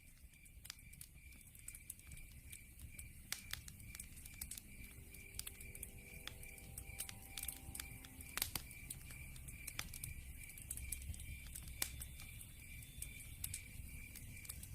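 Log fire crackling: irregular sharp pops and snaps over a low rumble of flames, fading in over the first few seconds. Behind it a steady, evenly pulsing high chirp, like night insects, repeats a few times a second.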